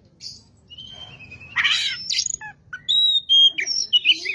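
Oriental magpie-robin (kacer) singing a varied, loud song: clear whistled notes and short pitch glides, with a harsh rasping note about a second and a half in.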